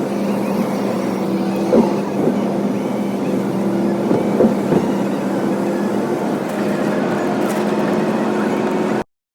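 A vehicle engine running with a steady hum, with a few short knocks or rattles about two seconds and four to five seconds in. The sound cuts off abruptly near the end.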